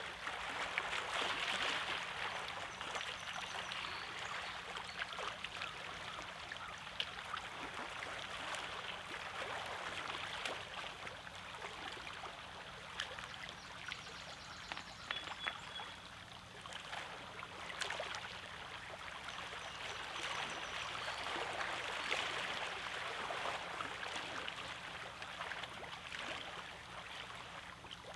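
Small lake waves washing and lapping over a rocky shore, with many small splashes and clicks among the stones. The wash swells louder about a second in and again around two-thirds of the way through.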